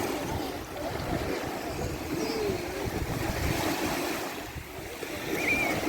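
Wind buffeting the microphone over the steady wash of sea waves on a beach.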